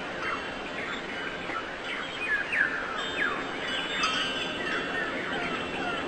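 Many birds chirping at once: a dense chorus of short, quick calls, each sliding down in pitch, overlapping throughout.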